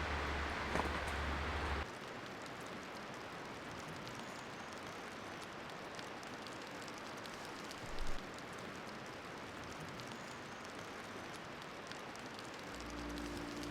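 Steady rain falling, heavier and with a low rumble for the first couple of seconds, then even. One low thump about eight seconds in.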